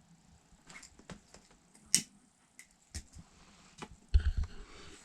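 Handling noise from an RC truck being turned over in the hands: scattered sharp clicks and light knocks, the loudest about two seconds in, then a run of low thumps near the end.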